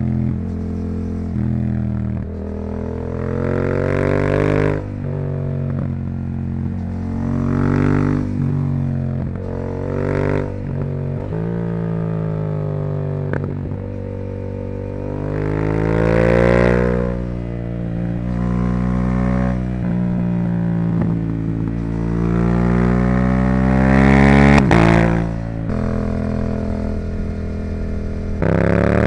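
Yamaha YZF-R7's 689 cc parallel-twin engine through a Yoshimura R77 exhaust, under hard riding: its pitch climbs in a series of pulls of a few seconds each and then drops sharply as the throttle is closed or a gear changes, with the loudest pull near the end.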